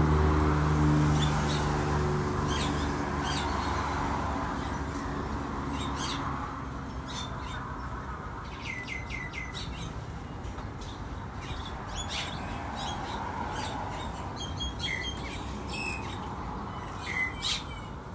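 Small birds chirping with short, repeated high calls, including a quick run of four falling notes about halfway through. A motor vehicle's engine hum fades away over the first few seconds.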